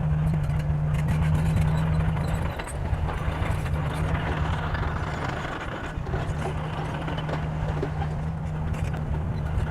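Diesel engine of heavy earth-moving machinery running steadily under load, with a brief drop in level about two and a half seconds in and a softer dip near six seconds.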